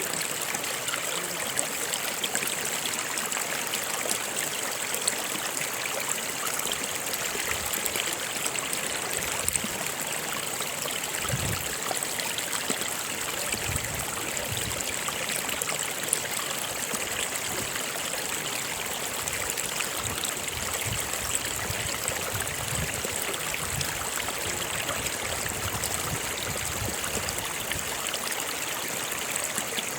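Stream water running and splashing steadily over rocks, a continuous rushing with small gurgles.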